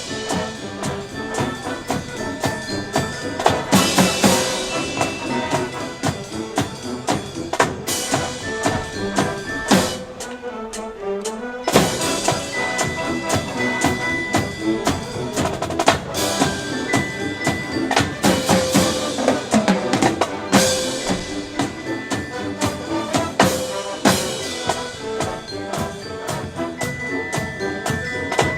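High school marching band playing: brass over a drum kit with bass and snare drums keeping a quick, driving beat. About ten seconds in the band thins out for a moment, then comes back in with loud hits.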